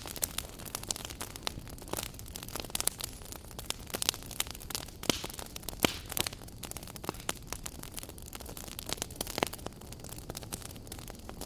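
Wood fire burning in a fireplace, crackling with many irregular sharp pops over a steady low rumble and hiss.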